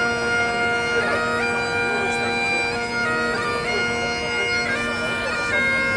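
Scottish bagpipes playing a tune over their steady drones, the melody stepping from note to note.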